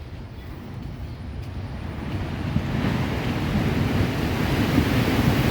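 Roar of big ocean waves surging up against a cliff, swelling steadily louder from about two seconds in.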